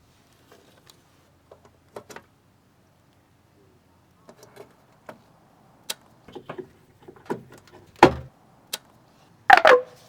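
Scattered light clicks and knocks of gear being handled, with a louder knock about eight seconds in and a short falling squeak near the end.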